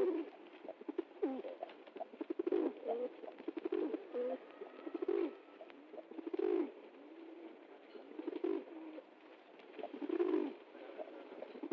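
Pigeons cooing, low coos following one another every second or two.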